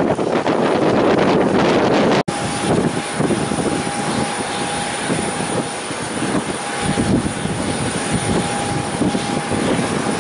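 Wind buffeting the microphone, then, after a brief cut about two seconds in, an airplane's engines running with a steady whine over a rushing noise.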